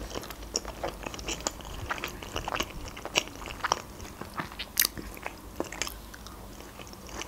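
A person chewing sushi rolls with wet mouth sounds: many short, irregular clicks and smacks.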